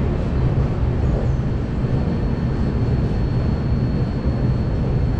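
Passenger train coach running along the track past a station platform: a steady low rumble of wheels and rails with no breaks.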